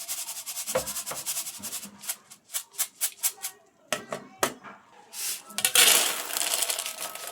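Dry flattened rice (poha) rattling and rustling against a container as it is shaken or stirred, in quick uneven strokes, then a denser rush of grains about five seconds in.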